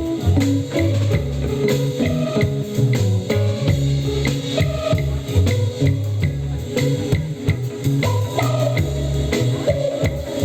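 Organic trance band music with a steady drum beat, a repeating bass guitar line and guitar melody on top.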